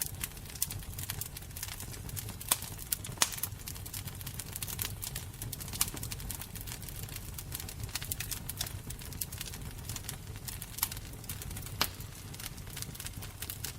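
Fire crackling: a steady low rumble with frequent irregular pops and snaps, a few of them sharper and louder.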